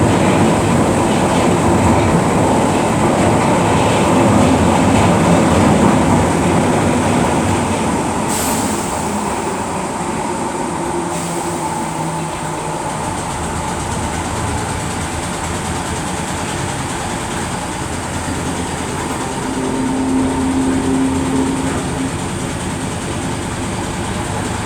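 Merseyrail Class 508 electric train running along the track: a steady rumble of wheels and motors, a little louder for the first six seconds or so, with a brief high-pitched sound about eight seconds in.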